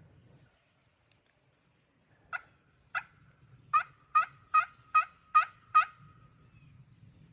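A run of eight turkey yelps, loud and close, each a short sharp note that drops in pitch, coming faster after the first two, as when calling to draw a gobble from a tom.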